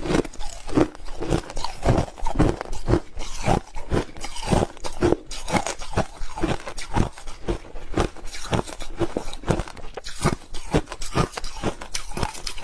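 Crushed ice being chewed close to the microphone: a steady run of loud, sharp crunches, about two to three bites a second.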